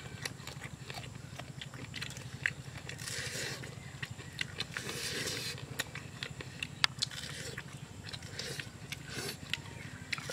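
Close-up eating sounds of two people eating barbecued chicken legs with their fingers: chewing, lip smacking and many short wet clicks, with a few brief hissy patches, over a low steady hum.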